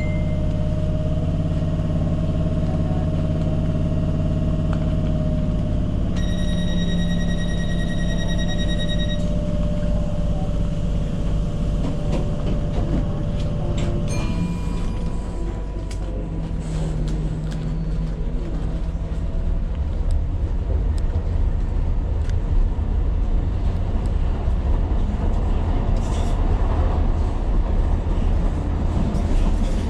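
Tyne & Wear Metrocar standing at a platform with a steady equipment hum, then a rapid electronic beeping for about three seconds: the door-closing warning. About halfway through the hum stops and the train pulls away, its wheel and track rumble growing louder as it picks up speed.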